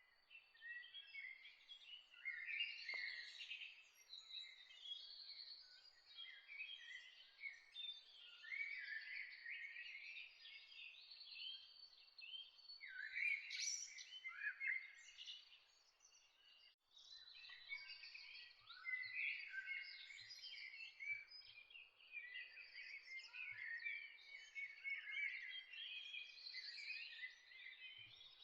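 Many small birds chirping and singing at once in a dense morning chorus, with short overlapping chirps and trills, broken by a brief drop-out about two-thirds of the way through.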